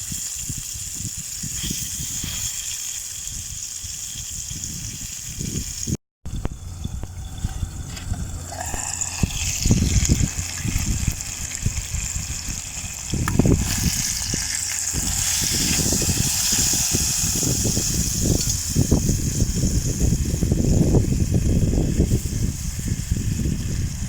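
Food sizzling in a frying pan over an alcohol stove: a steady hiss, with an abrupt cut about six seconds in. Wind buffets the microphone throughout with irregular low rumbles, heavier in the second half.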